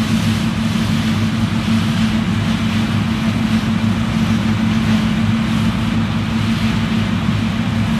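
New Holland CX 6.80 combine harvester running steadily, a constant low engine drone over a hiss of machinery.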